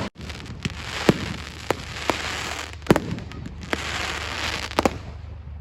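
Fireworks display: separate sharp bangs of shells bursting every second or so, with a crackling hiss that swells and fades between them.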